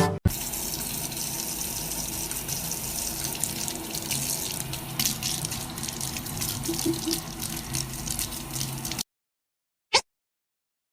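Running, splashing water that cuts off suddenly about nine seconds in, followed by silence with a single click.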